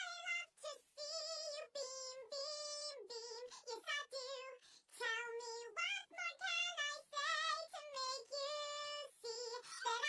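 High-pitched, synthetic-sounding singing voice in a quick run of short sung notes, several held with a wavering vibrato.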